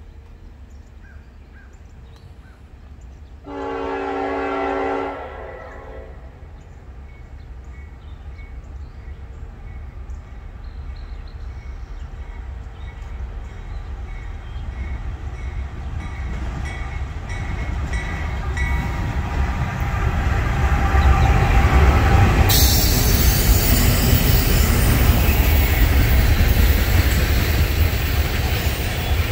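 Norfolk Southern freight train approaching and passing: one long horn blast a few seconds in, then the locomotive's rumble growing steadily louder until it passes about 22 seconds in, followed by the loud, steady rolling noise of the oil train's tank cars going by.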